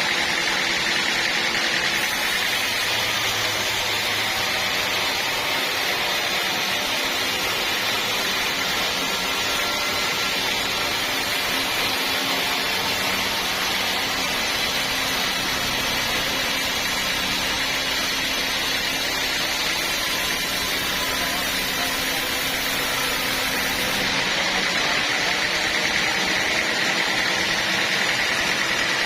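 A sawmill running steadily, its engine and blade making a continuous mechanical noise. A brighter hiss comes in about two seconds in and drops away a few seconds before the end.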